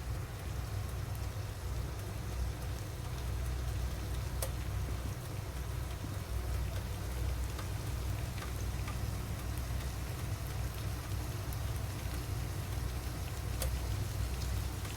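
Chicken frying in hot oil: a steady sizzle with a few sharp pops, over a steady low rumble.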